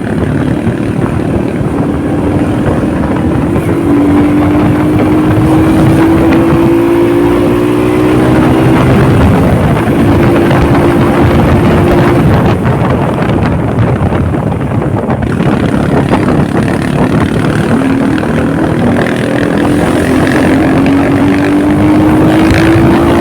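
Honda motorcycle engine running while riding under steady load, with loud wind and road rush. The engine note climbs slowly as the bike gains speed, about four seconds in and again near the end.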